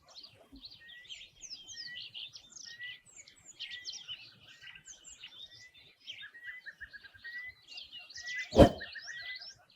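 Songbirds chirping and singing, with one short rising whistle repeated about once a second. A single sharp knock about three-quarters of the way through is the loudest sound.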